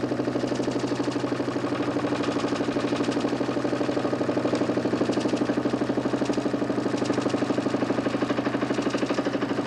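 DC motor spinning a 40 cm plywood Nipkow disc in a homemade mechanical television, running at steady speed with a steady hum and an even, fast pulsing of several beats a second.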